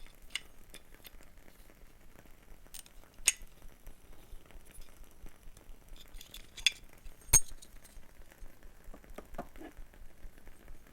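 Small wooden objects handled and tapped close to the microphone: scattered sharp clicks and light taps with pauses between them, the loudest click about seven seconds in and a run of softer ticks near the end.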